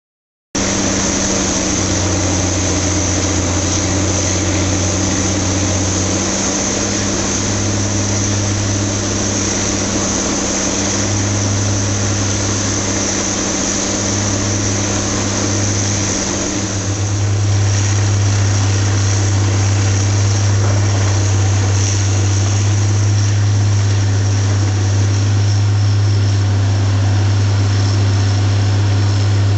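Engine of a Terex machine running steadily, getting louder a little past halfway and holding there.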